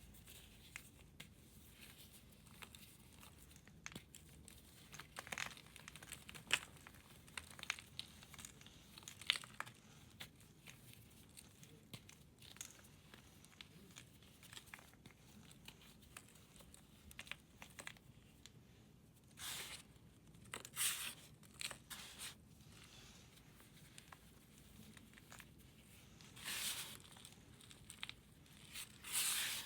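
Pressed powder block, such as gym chalk or corn starch, being crumbled and shaved by hand: soft, irregular crunchy crackles, with a few louder crumbling bursts about two-thirds of the way in and near the end.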